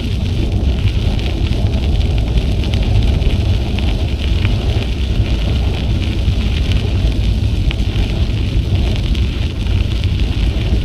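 Wind buffeting the action camera's microphone during a bicycle ride: a steady low rumble, with tyre noise crackling underneath.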